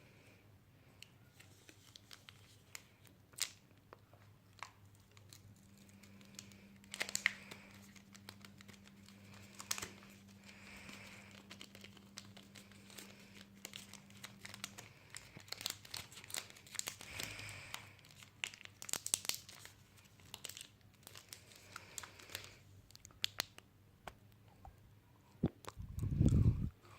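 Crinkly material being crumpled and torn close up, with many small crackling clicks. A faint steady hum runs through the middle, and a loud low thump comes near the end.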